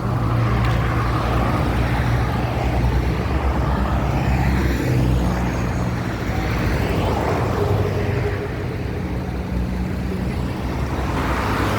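An engine running steadily, its low hum shifting pitch slightly a few times.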